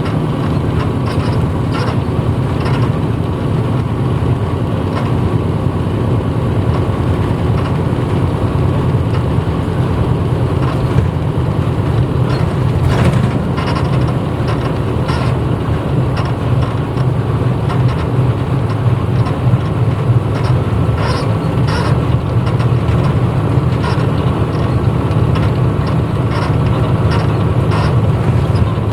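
Running sound inside a 1994 Hino Blue Ribbon city bus under way: the diesel engine drones steadily with a strong low hum, and occasional short clicks and rattles come through.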